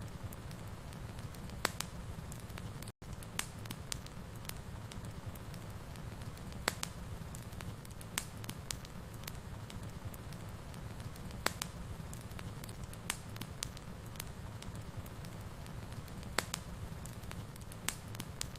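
Fireplace fire burning: a steady low rumble of flames with sharp pops and crackles at irregular intervals. The sound cuts out for an instant about three seconds in.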